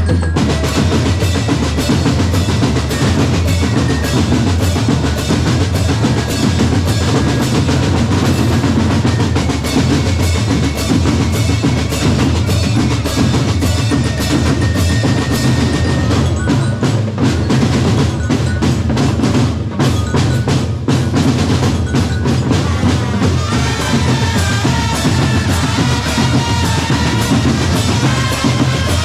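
Drum corps playing: bass drums and other percussion beating out a continuous rhythm.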